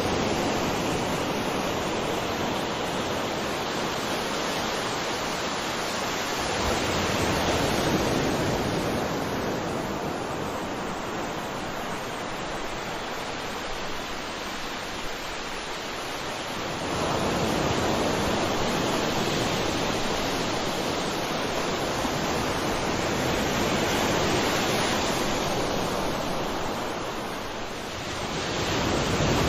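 Ocean waves breaking and washing onto the shore: a continuous rush of surf that swells and eases every several seconds as each wave comes in.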